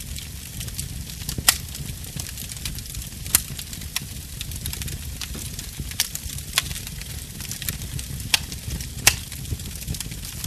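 Fireplace fire crackling: a steady low rumble and hiss under many small ticks, with about six sharper pops scattered through.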